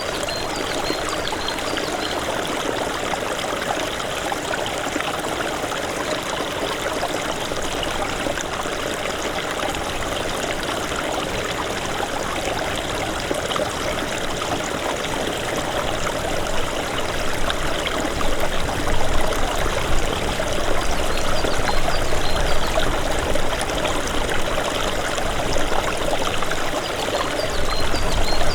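Small snowmelt stream running and babbling in a steady rush. From about two-thirds of the way in it grows a little deeper and more uneven.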